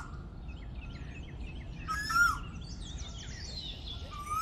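Birds calling: a loud whistled call that rises and then drops sharply, repeating about every two seconds, with quicker, higher chirps from other birds between.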